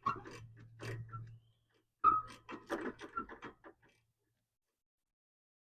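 Hand tools clicking and clinking against metal while spark plugs are fitted into the engine, in two short runs of irregular clicks and knocks with a brief metallic ring, then dead silence for the last couple of seconds.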